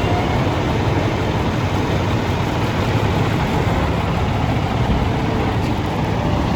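Diesel engine of a Peterbilt 388 semi truck idling steadily.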